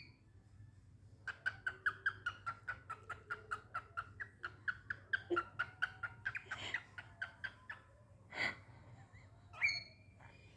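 Cockatiel giving a rapid run of short, sharp chirps, about six a second, for several seconds, then two single louder calls near the end.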